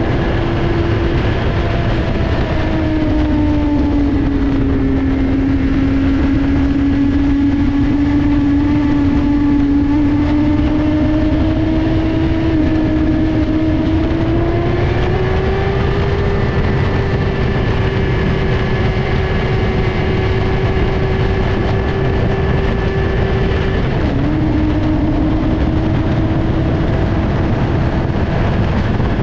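Motorcycle engine running at a steady cruise under heavy wind noise on the microphone. The engine note climbs gradually partway through, then steps down sharply about two-thirds of the way in before settling again.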